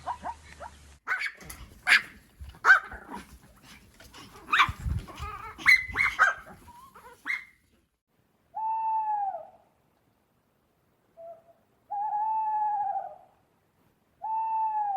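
A dog barking and yelping in quick, irregular calls for about seven seconds. Then, after a short silence, come long hooting calls, three in about six seconds, each gently rising then falling in pitch.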